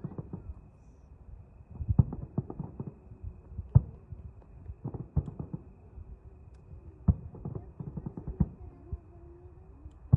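Fireworks shells bursting: sharp bangs at irregular intervals, several of them loud, over a low rumble.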